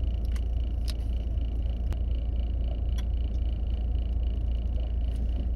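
Car engine idling: a steady low rumble inside the cabin. A few sharp clicks come through as a plastic water bottle's cap is twisted open and the bottle is handled.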